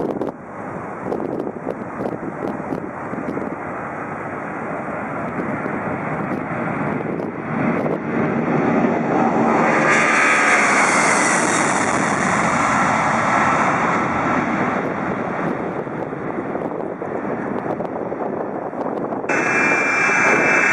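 Jet airliner engines roaring as the aircraft passes. The roar builds to its loudest about halfway through, with a high whine that drops in pitch as it goes by. Shortly before the end the sound switches suddenly to a brighter jet roar with steady high whines.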